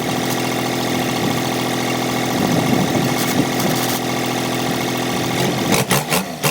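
New Holland 3630 tractor's diesel engine idling steadily. Near the end the sound breaks into rapid, uneven pulses.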